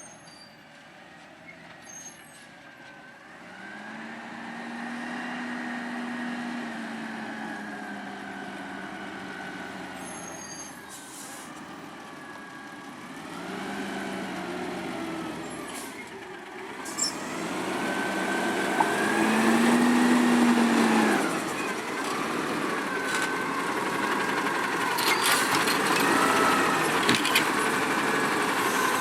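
Garbage truck's engine revving up and down again and again as it works, getting louder over the first twenty seconds, with a few short air-brake hisses and clanks.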